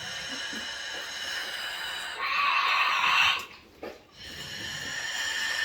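A pet parrot making long, drawn-out calls: one long call that grows louder about two seconds in, a short break, then another long call.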